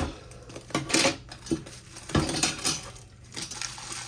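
Hard parts of a new bird feeder, among them glass, clinking and knocking together as they are handled and unpacked: a run of irregular sharp clinks.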